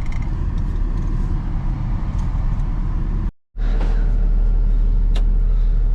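Steady low engine and road rumble inside the cab of a moving Freightliner box truck. It drops out completely for a moment a little past halfway, then comes back slightly louder, with a light click near the end.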